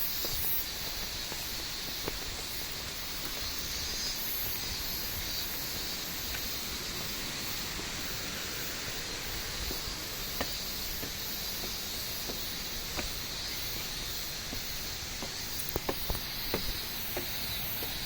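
Waterfall rushing steadily, an even hiss of falling water, with a few short clicks near the end.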